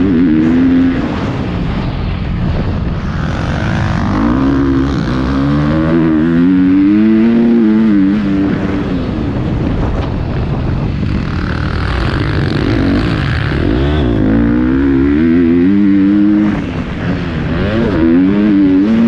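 Motocross dirt bike engine revving up and down, its pitch rising and falling again and again as the rider works the throttle around the track, with a brief dip about three-quarters of the way through.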